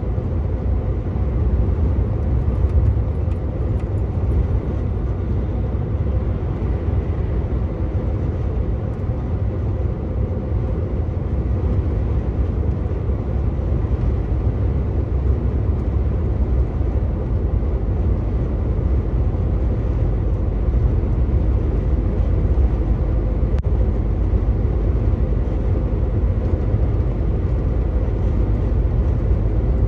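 Truck's diesel engine and tyre road noise while driving along, a steady low rumble.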